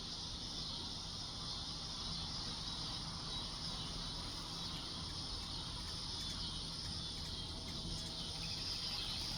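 Steady outdoor insect chorus: a continuous high-pitched shimmering drone that neither starts nor stops, over a low background rumble.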